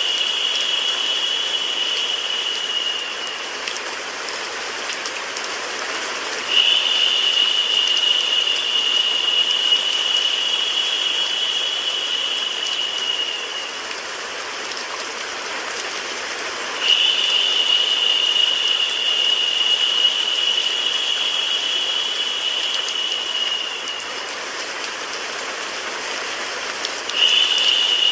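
Steady hiss of rain mixed with white noise. A high, even whine rises over it in spells of about seven seconds, with gaps of about three seconds between them.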